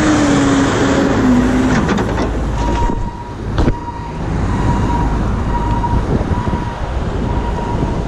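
Loud city street traffic noise heard while riding, with a wavering vehicle drone for the first two seconds and a single sharp knock about three and a half seconds in.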